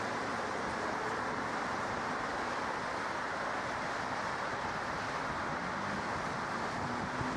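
Jet aircraft engine noise: a steady, even rushing sound with no change in level.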